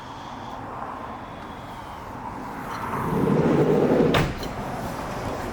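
A sliding door rumbling along its track for about a second, then shutting with one sharp clack.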